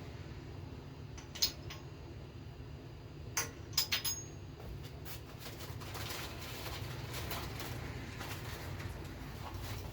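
Small steel valvetrain parts (rocker arms, pivots and nuts) clinking as they are handled and set on a V6 cylinder head. There is a single clink about one and a half seconds in and a quick cluster of clinks around four seconds in, over a steady low hum.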